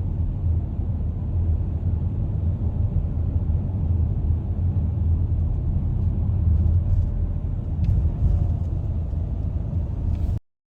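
Steady low rumble of road and engine noise inside a moving car's cabin, which cuts off suddenly near the end.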